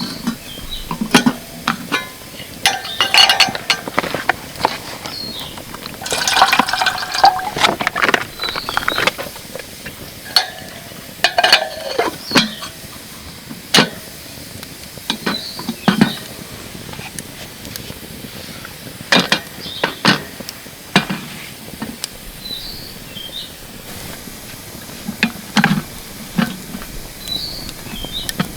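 Camp cookware and dishes being handled: scattered clinks and knocks, with denser clattering at about three, six to nine, and eleven seconds in. Faint short bird chirps sound now and then.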